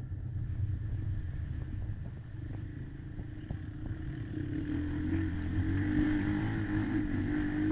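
Kymco Maxxer 300 quad's engine running at low, fairly steady revs, picking up a little from about halfway through, with a few light knocks from the machine over rough ground.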